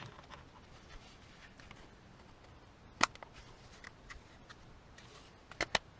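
Sharp clicks and knocks of car door lock parts being handled and fitted: a single click about three seconds in, then a few more in quick succession near the end.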